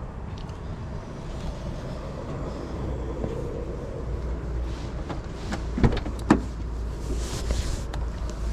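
Steady low rumble of a vehicle running, heard from inside, with a couple of sharp clicks about six seconds in.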